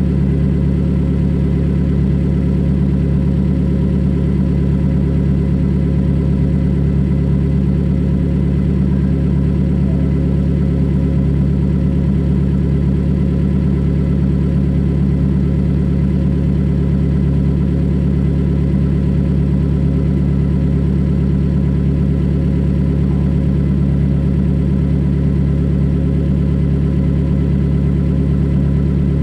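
A 2020 Toyota Corolla LE's four-cylinder engine idling steadily through a straight-piped exhaust. A low, even drone holds the same pitch throughout, with no revs.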